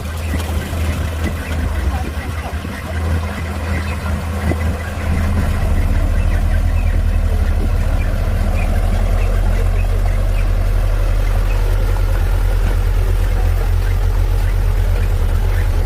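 Heavy earthmoving machine's diesel engine running with a steady low rumble, getting louder about five seconds in and holding steady after that.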